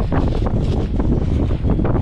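Wind buffeting the microphone: a loud, steady rumble with a constant gusty flutter.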